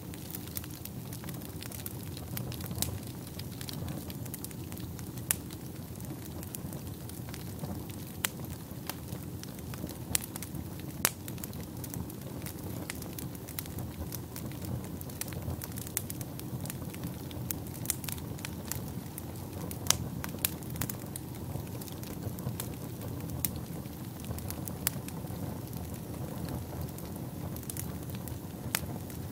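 Wood fire burning in a fireplace: a steady low rush of flames with irregular sharp crackles and pops, a few louder snaps among them.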